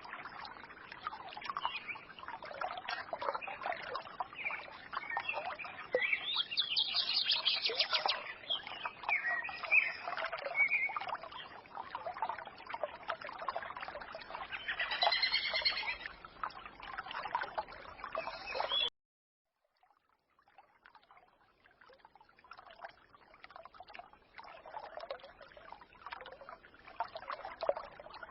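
Forest stream trickling and babbling, with small songbirds chirping and singing over it. About two-thirds of the way through, the sound cuts out abruptly for about a second, then comes back quieter.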